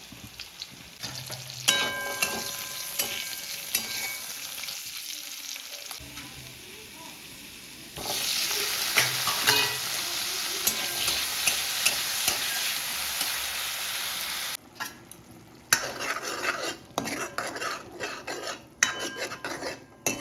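Food sizzling as it fries in a pan, with a spatula scraping and clattering against the pan as it is stirred. The sizzle grows much louder about eight seconds in and drops away suddenly near fifteen seconds, after which the stirring comes in short, uneven spells.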